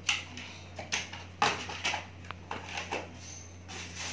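Monitor packaging being handled: a run of short rustles, scrapes and knocks about every half second, over a steady low hum.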